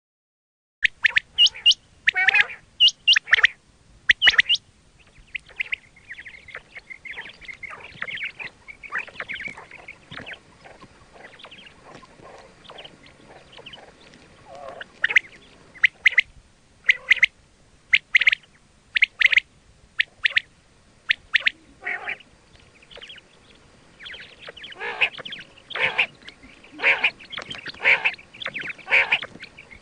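Quail calling: short, sharp, high calls in quick groups, with softer chattering calls in between. This is a recorded quail call of the kind played to lure quail for hunting.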